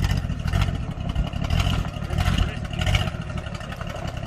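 Truck engine running, a steady low rumble with some rattling clatter mixed in.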